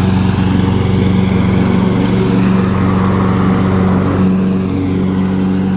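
Petrol lawn mower engine running steadily under load, loud and close.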